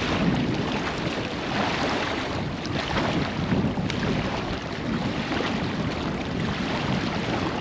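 Wind buffeting the microphone over choppy lake water, a steady rushing noise with water lapping and splashing.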